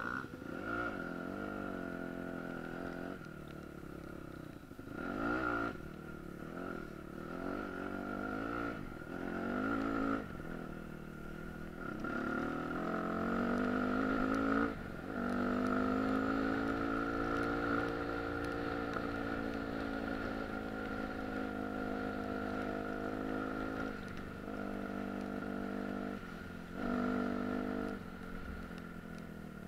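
Dirt bike engine revving up and down as it is ridden, shifting through the gears. Near the middle it makes a long climb and holds high revs for several seconds before easing off, with a steady high tone underneath.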